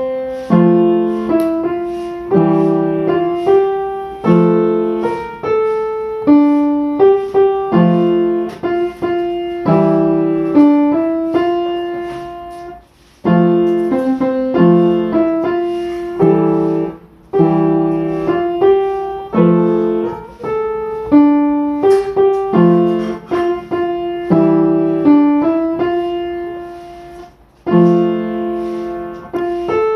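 Solo piano music: a slow melody of single struck notes over low chords, each note fading after it is played, with a brief pause about halfway.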